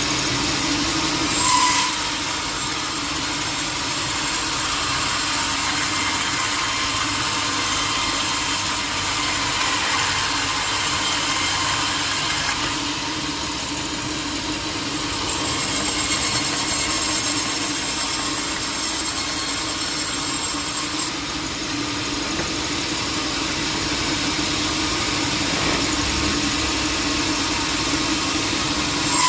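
Sawmill machinery running steadily with a constant hum and a dense high-pitched noise, with a brief louder burst about a second and a half in and again at the very end.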